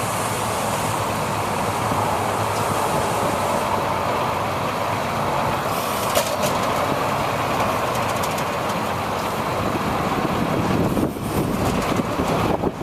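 A 2002 International truck running, a steady mechanical engine noise with no clear changes in pace.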